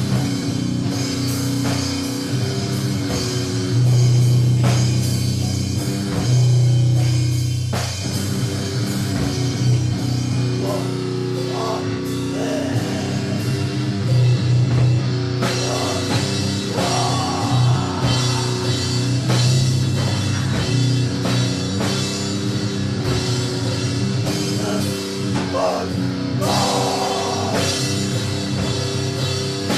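Loud doom-metal noise jam: heavily distorted low droning chords over a drum kit, with a steady hiss of cymbals and noise on top.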